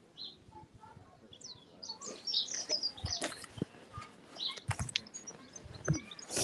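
Small birds chirping, short high calls and quick rising and falling notes. From about halfway through there are a few short sharp knocks close by.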